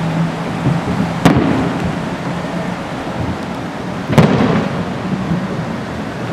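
Aerial fireworks shells bursting: two loud booms about three seconds apart, each followed by a rolling echo, over the steady rumble of the display.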